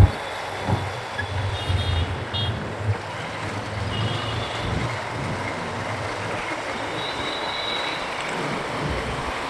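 Ride on a motorcycle through city traffic heard from the rider's microphone: steady wind and road noise, with low wind buffeting in the first few seconds. A few short high-pitched beeps from traffic sound around two, four and seven seconds in.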